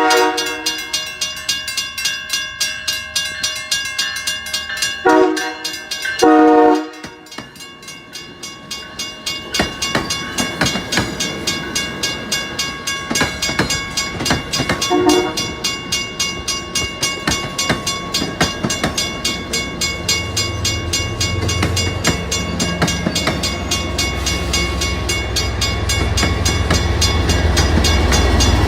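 WRRS mechanical railroad crossing bell ringing steadily at about two to three strikes a second, while a locomotive horn blows for the crossing: two long blasts about 5 to 7 seconds in and a short one near 15 seconds. A train then rumbles through, the low rumble growing toward the end.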